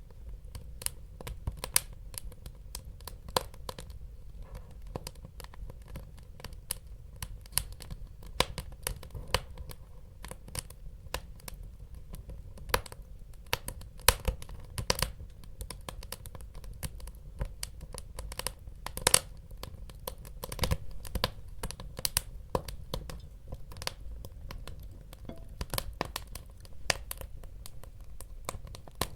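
Wood fire crackling in a fireplace: irregular sharp pops and snaps over a steady low rumble of burning, with a few louder pops midway.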